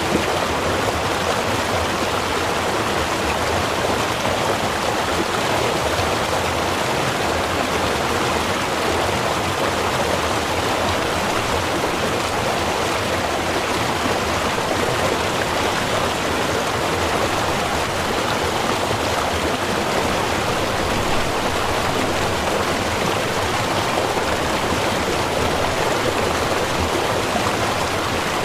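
Small river or stream flowing steadily over rocks, a continuous even rush of water.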